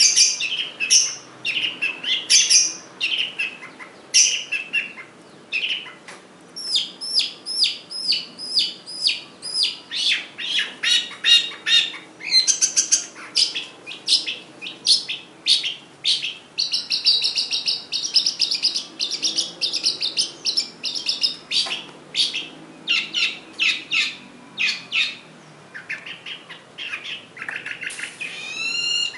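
Long-tailed shrike (cendet) singing a fast, varied song packed with mimicked calls: rapid strings of short, sharp notes, several a second, with a stretch of continuous buzzy chatter about halfway through.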